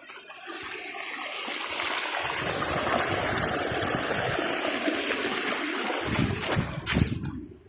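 Rushing water of a rain-fed stream, a steady hiss that swells over the first couple of seconds and then holds. A few short thumps come near the end.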